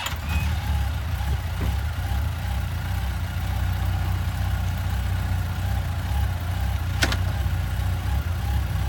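Yamaha FJR1300's inline-four engine idling steadily, with a single sharp click about seven seconds in.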